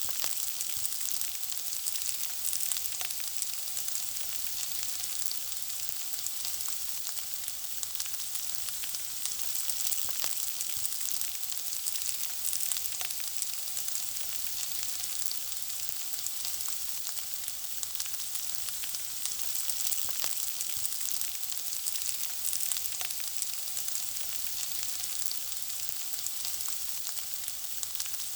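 Food frying in hot oil: a steady high sizzle with many small crackles and pops.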